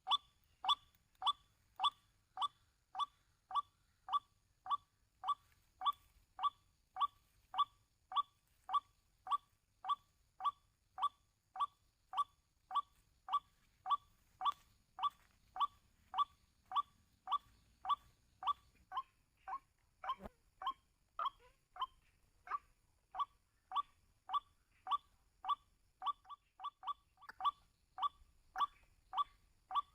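White-breasted waterhen's 'kwak' call repeating steadily about twice a second, played as a lure recording over a trapping speaker. The rhythm stumbles briefly with a low thump about two-thirds of the way through.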